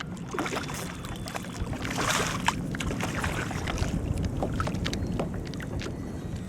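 Wind buffeting the microphone in a steady low rumble, with choppy water splashing and lapping in short bursts, the loudest about two seconds in.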